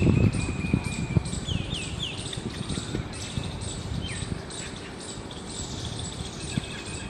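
Small birds chirping: short notes that sweep down in pitch, over a faint high ticking that repeats about twice a second and a low rumble that fades in the first second.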